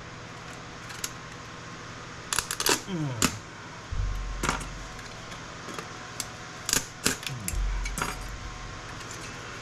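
Circuit boards and small electronic parts clattering and clicking as they are handled and dropped, in scattered bursts of sharp clicks with a couple of dull thuds, over a steady faint hum.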